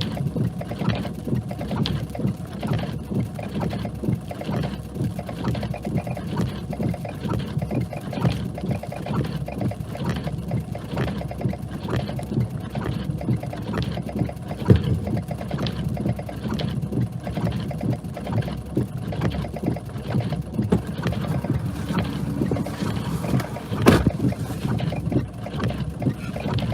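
Steady low rumble of a vehicle driving on a snowy road, with frequent small knocks through it. A sharper knock comes about fifteen seconds in and another near the end.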